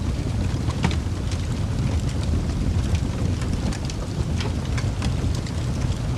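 Wood fire burning in a fireplace: a steady low rumble of the flames with irregular sharp crackles and pops from the logs, about one or two a second.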